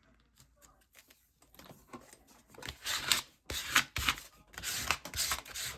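Paper being handled on a craft table: quiet at first, then a run of short rustles and rubbing strokes starting about two seconds in.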